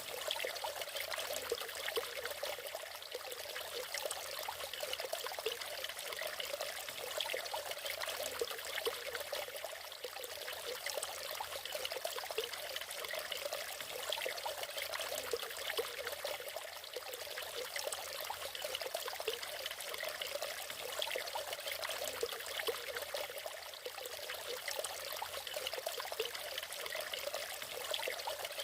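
Water of a natural waterfall splashing and trickling steadily, a light, even sound without a deep roar.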